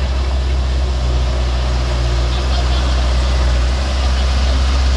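Heavy vehicle engine running steadily at low revs, a deep even drone.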